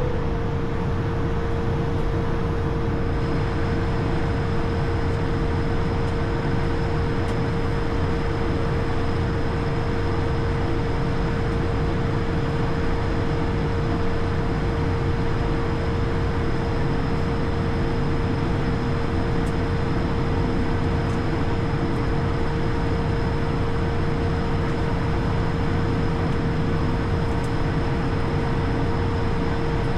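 Steady cockpit noise of an Airbus A220, a constant low roar with a steady mid-pitched hum running through it.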